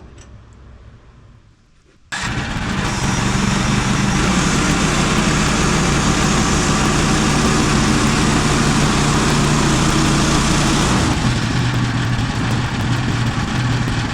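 Gas-powered sawmill engine running loud and steady, coming in abruptly about two seconds in, with a high hiss over it that drops away about eleven seconds in while the engine keeps running.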